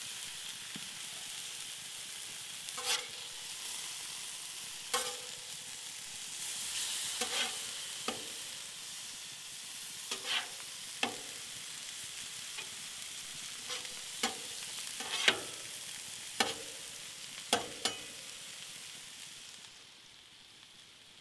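Chicken pieces sizzling on a flat-top griddle, with a metal spatula striking and scraping the griddle plate about a dozen times as the meat is turned. The sizzle drops away near the end.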